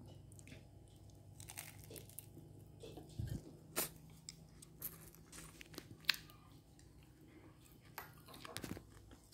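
Close-up eating sounds of crispy deep-fried climbing perch: chewing and crunching, with scattered sharp clicks, the loudest about six seconds in, as chopsticks and a spoon work the fish apart against a ceramic bowl.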